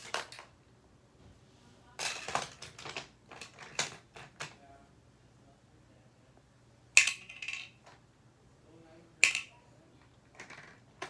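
Hard plastic toy pieces clicking and clacking as they are handled, in scattered clusters, with two louder sharp knocks about seven and nine seconds in.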